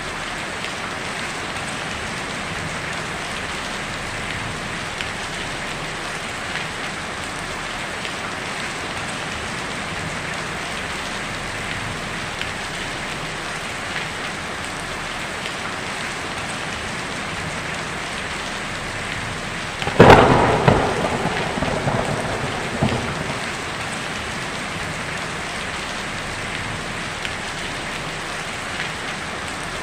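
Heavy rain pattering steadily on a tin roof, with small drops ticking. About two-thirds of the way through, a sudden close thunderclap cracks and rumbles away over a few seconds.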